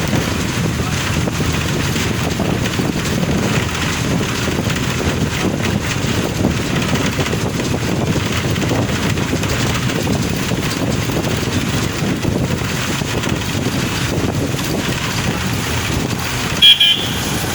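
Steady rumble of a car driving on the road, with wind buffeting the microphone. Near the end comes one short, loud, high-pitched beep.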